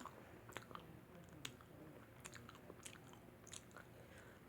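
Close-up chewing of pizza with a mouth closed and open at times: soft wet smacks and small clicks, a few to the second.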